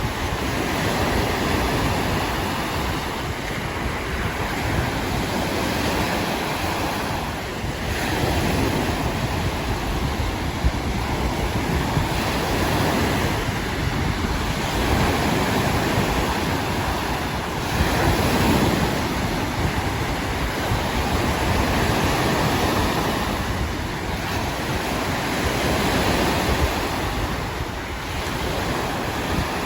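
Lake Erie waves breaking on the shore in steady rolling surges that swell every few seconds, with wind buffeting the microphone.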